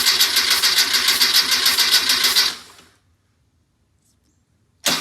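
Starter cranking an air-cooled Type 4 VW flat-four engine without it firing, during a compression test on cylinder 4: a fast, even chugging that dies away about two and a half seconds in, then starts again abruptly just before the end.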